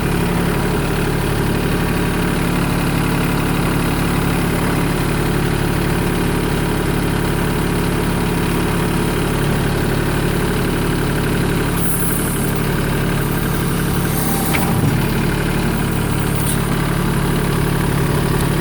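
Kubota compact tractor's diesel engine idling steadily, with a single short knock about fifteen seconds in.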